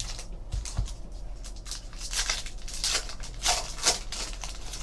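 Baseball trading cards being slid and flipped past one another in the hand, a run of short papery swishes that grow stronger about two seconds in.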